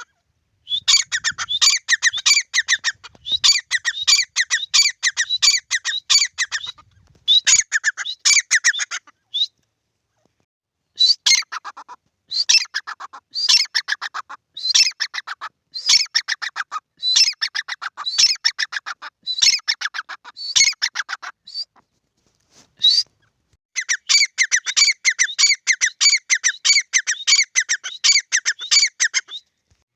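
A pair of grey francolins calling: long bouts of rapid, harsh, repeated notes. The calling pauses briefly about ten seconds in and again a little past twenty seconds.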